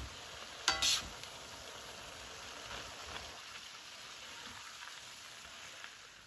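Chicken chow mein sizzling in a steel pan as it is turned with tongs, with a short clatter of the tongs against the pan a little under a second in.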